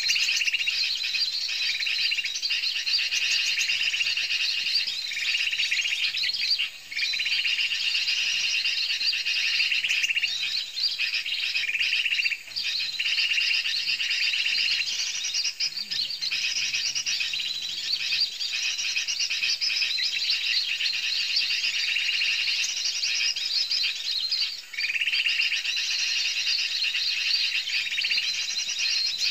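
Small birds chirping densely and continuously in rapid high-pitched notes. A lower strand of the chirping comes and goes in stretches, strongest in the first ten seconds and again near the end.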